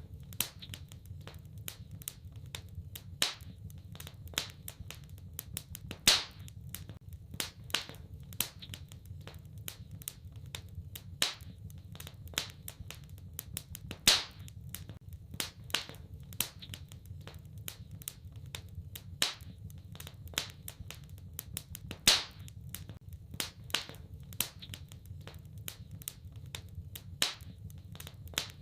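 Wood fire in a fireplace crackling steadily with many small, irregular snaps and a handful of louder pops, over a low, steady hum.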